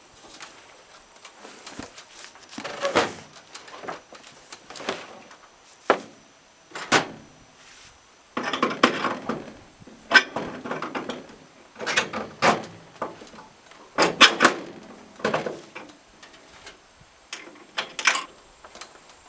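Irregular knocks and clunks, about a dozen separate hits spread unevenly, some with short stretches of scraping or rustling between them, like objects being handled and set down.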